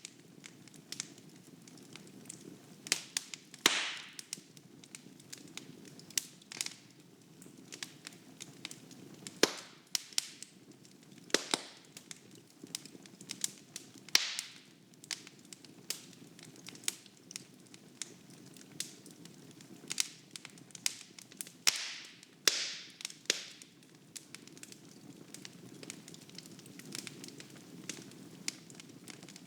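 Wood fire crackling in a fireplace: irregular sharp pops and snaps, some with a brief hissing tail, over a soft steady rustle of flames.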